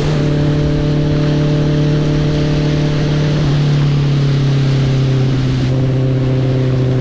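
Honda CB650R's inline-four engine cruising at a steady note, stepping down in pitch once about three and a half seconds in as the rider shifts up a gear. A steady rushing noise of wind and road runs underneath.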